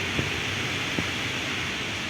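Heavy rain falling steadily, an even hiss, with two sharp taps, one just after the start and one about a second in.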